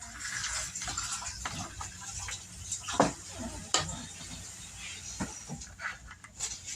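Kitchen handling sounds while cake batter is poured from a mixing bowl into a pan: scattered light knocks and scrapes of a utensil against the bowl over a steady background hiss.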